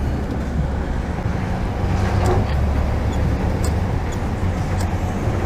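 Yamaha FZ6R's 600cc inline-four engine running with a steady low rumble, with a few faint light clicks.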